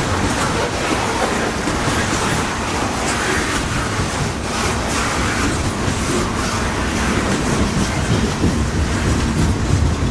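Canadian Pacific coal train rolling past, its steel wheels running on the rails in a steady rumble with scattered clicks.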